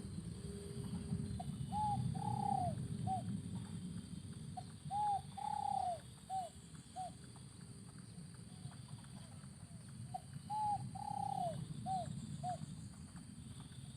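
Spotted dove cooing: three phrases, each a short coo, a longer drawn-out coo, then two or three short notes. A steady low rumble lies underneath.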